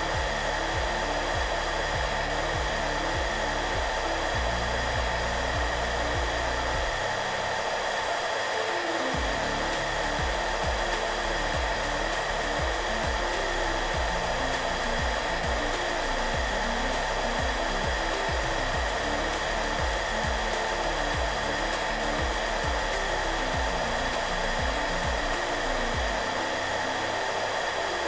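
Hairdryer blowing steadily, a constant whooshing hiss with a steady whine, under soft background music with low notes.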